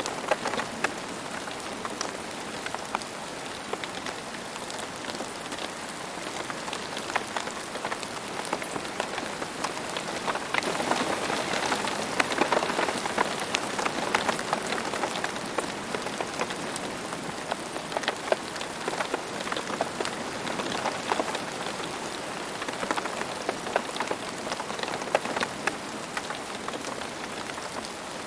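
Steady rain falling on the ground, a continuous hiss full of individual drop ticks, a little heavier for a few seconds in the middle.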